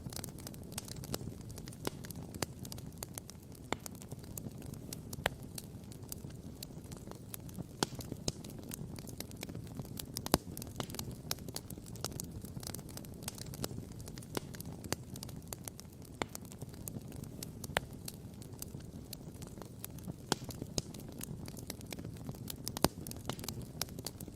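Wood campfire crackling and popping: many irregular sharp pops, a few clearly louder than the rest, over a low steady rumble.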